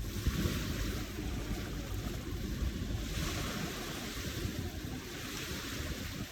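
Ocean surf: waves washing in continuously with a low rumble, and a hiss of breaking water swelling up around the middle.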